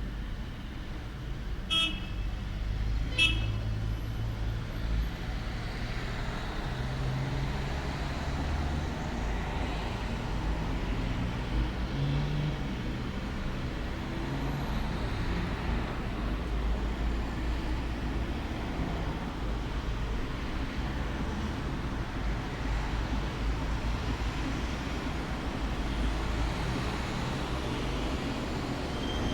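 Steady low rumble of road traffic. Two short high-pitched sounds come about 2 and 3 seconds in.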